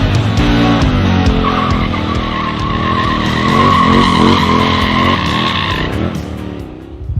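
KTM motorcycle drifting: the engine revs up and down while the rear tyre squeals in a long screech from about a second and a half in until near six seconds, over music with a steady beat.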